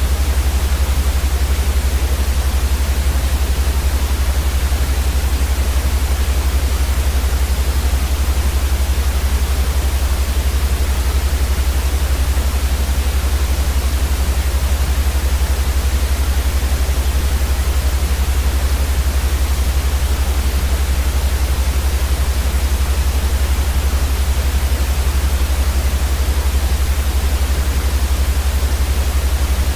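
Steady white noise for sleep: an even, unchanging hiss over a strong low rumble.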